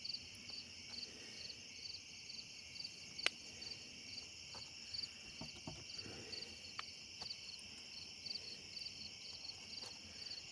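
Night insect chorus: a cricket chirping about twice a second over a steady high insect trill, with a few faint scattered clicks and one sharper click about three seconds in.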